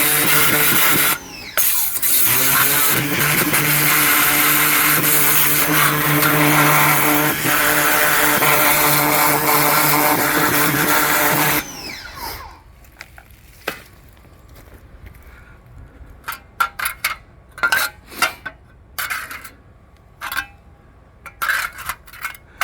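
Ryobi 1900 PSI electric pressure washer running and spraying water with a steady motor hum and hiss, dropping out briefly about a second in and cutting off about halfway. Scattered light knocks and taps follow.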